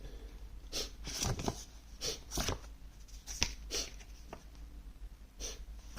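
Packaging being handled by hand: a string of short, irregular rustles and taps.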